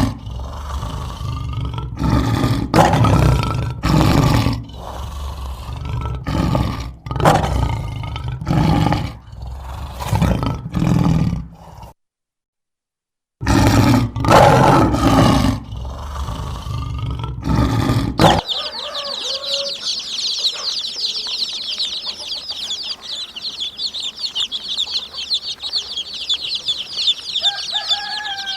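Loud, repeated animal calls, with a brief total silence at a cut midway. Then the sound changes to a dense, steady high-pitched chirping of many small birds, with a few lower clucking calls near the end.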